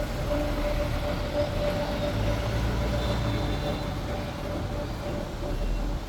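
Double-decker tour bus running, heard from on board: a steady low rumble with a constant hum over the general noise of the moving bus and street traffic.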